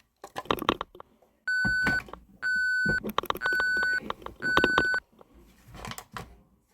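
Toy trash truck's electronic backup beeper sounding four times, about once a second, each beep a steady half-second tone, with plastic clicking and clattering between the beeps.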